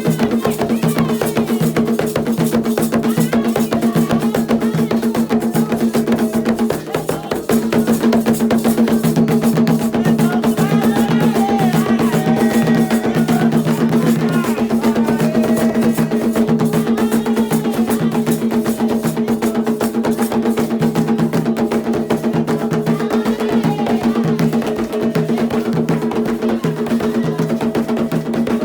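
Candomblé music: a fast, steady rhythm of drums and percussion with voices singing over it.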